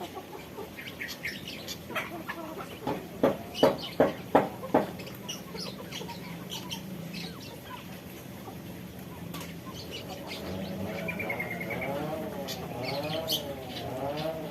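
Aviary birds bathing: a quick run of sharp wing-flutters and splashes with short high chirps in the first five seconds, then from about ten seconds in a bird giving a repeated rising-and-falling call.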